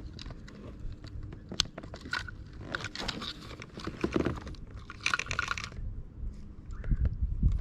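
Handling noise of gear in a kayak: scattered clicks and knocks with two short scraping rustles, as a fish scale is got out and readied to weigh the bass.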